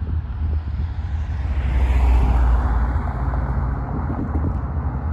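Deep, steady rumble of an approaching Wheeling & Lake Erie freight train's diesel locomotives, with a rush of noise that swells and fades about two seconds in.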